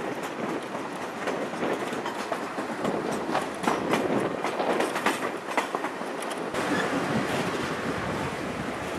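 Chihuahua–Pacific passenger train running, heard from on board: a steady rumble of wheels on rails with rapid clicking and rattling. The sound shifts abruptly about two-thirds of the way through.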